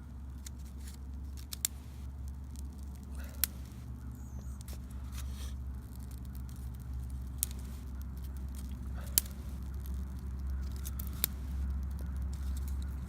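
Small wood campfire burning, with a handful of sharp pops spread through it over a low steady rumble.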